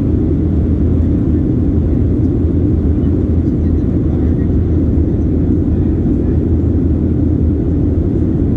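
Airliner in flight after a night takeoff: the steady low rumble of the jet engines and airflow, unchanging throughout.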